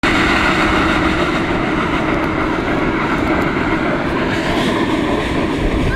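Steam-hauled passenger train running, heard from an open carriage window: a loud, steady rush and rumble of wind and the moving train.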